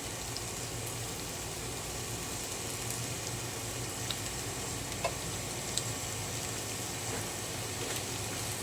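Green beans frying with onion and garlic in hot oil in a pan: a steady sizzle, with a few light clicks and a steady low hum underneath.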